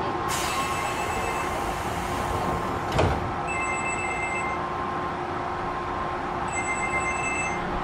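Inside an Odakyu 1000-series commuter train: a short hiss of air, a sharp thump about three seconds in, then a two-tone electronic chime sounding twice, about a second each, over the car's steady hum.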